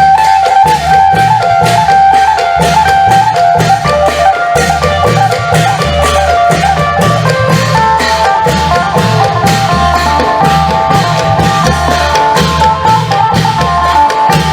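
Isan klong yao long-drum band playing a steady beat, with a fast phin lute melody running over it and sharp percussion strikes throughout.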